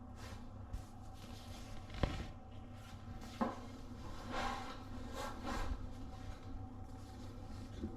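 Two sharp knocks a second and a half apart, then a few seconds of rustling and handling noise, over a steady low hum in a small room.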